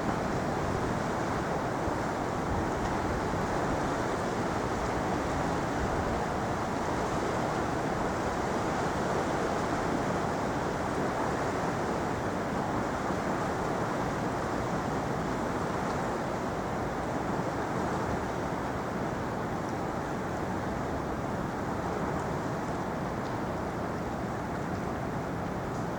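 Steady rushing ambient noise, even and unbroken, with no distinct events standing out.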